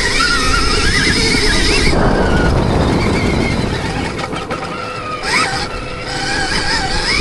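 Dirt bike being ridden on a motocross track, its motor pitch rising and falling with the throttle over heavy wind rumble on the microphone. The pitched sound drops away about two seconds in and climbs back up near the end.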